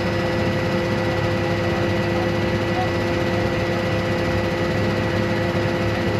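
Vehicle running steadily: an even drone of engine and road noise with a constant hum, no changes in pitch or level.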